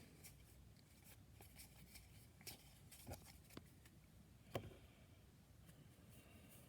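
Near silence with faint clicks and rubs of baseball cards being handled and flipped through. The sharpest tick comes about four and a half seconds in.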